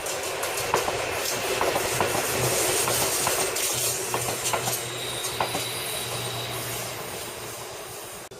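Electric commuter train passing on the Seibu Railway, its wheels clicking over the rail joints. It grows louder, peaks about two to three seconds in, then fades away.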